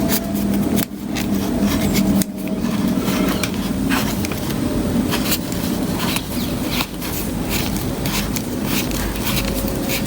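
Small clicks and scrapes of tools and parts being handled during watch reassembly, over a steady low background hum, with the sound cutting abruptly a few times.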